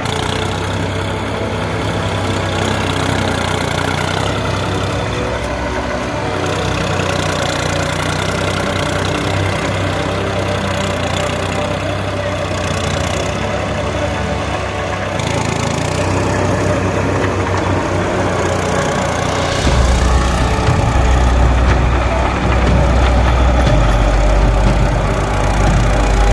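Tractor engine running steadily, growing louder and deeper about three-quarters of the way through.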